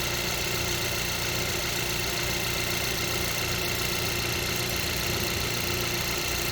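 Hyundai Avante MD's direct-injection four-cylinder petrol engine idling steadily, an engine whose owner complains of knocking and which has logged a knock-sensor fault.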